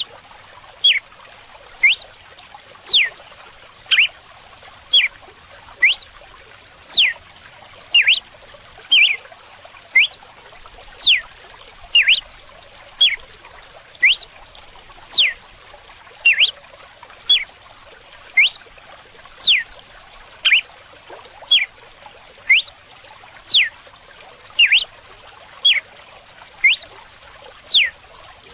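Red-cowled cardinal (galo-de-campina) singing its 'açoite' whip song: short, sharp whistled notes about one a second, many of them quick downward sweeps, over a steady hiss of running water.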